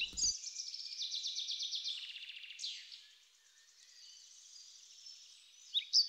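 Outdoor birdsong: a fast, high trill through the first half that fades away, with a few short chirps returning near the end.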